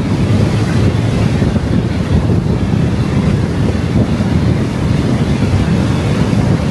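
Steady low rumble of a car's road and wind noise while driving at speed, with wind buffeting the microphone.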